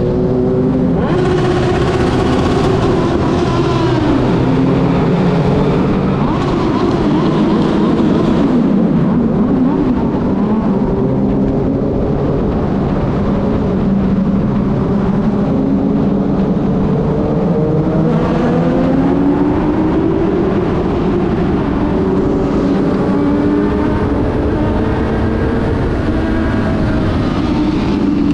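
Kawasaki Z1000 inline-four engine being revved through its exhausts, the pitch climbing and dropping several times. The revving is done to make the exhausts spit flame.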